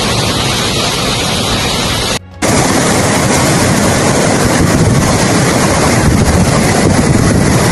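Loud, steady rush of water. It cuts out briefly about two seconds in, then comes back a little louder.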